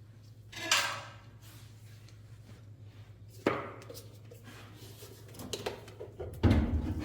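Clinks and knocks of metal parts and tools being handled: a sharp knock a few seconds in and a few small clicks, then louder heavy thumps near the end, over a faint steady hum.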